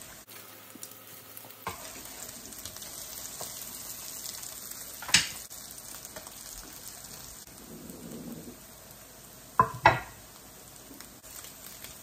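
Cod fish cakes sizzling in ghee in an electric skillet, a steady frying hiss. A few sharp knocks break in: one about five seconds in and two quick ones near the ten-second mark.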